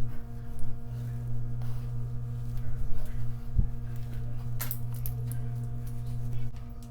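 A steady low electrical hum, with a soft knock about three and a half seconds in and a brief rustle a second later.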